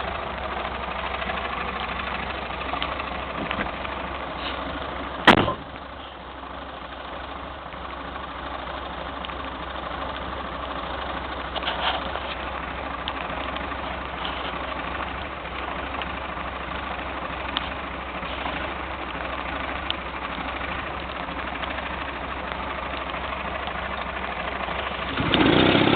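Small 1950s petrol-engine air compressor running steadily while inflating a tyre, with one sharp click about five seconds in and the sound growing louder just before the end.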